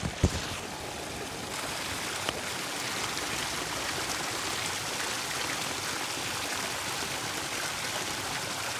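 A water feature's running water, a steady trickling flow, with a brief soft knock right at the start.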